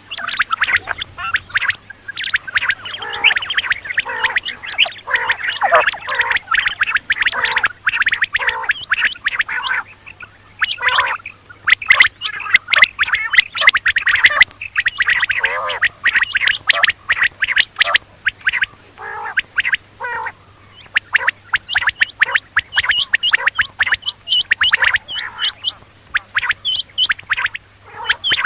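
Quail calling: rapid runs of short, high notes repeated over and over, with a couple of brief pauses.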